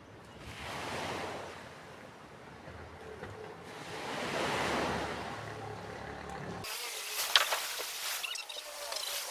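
Sea waves washing in, swelling twice. About two-thirds through, the sound cuts abruptly to a thinner background with scattered light clicks and knocks.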